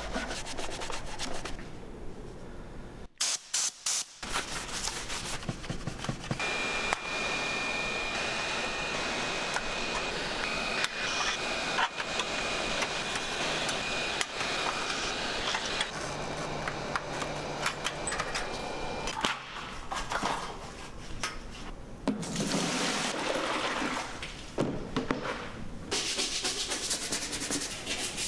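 Scrubbing and rubbing on a computer's plastic case during cleaning, heard in several short clips cut together, with a faint steady high whine through the middle.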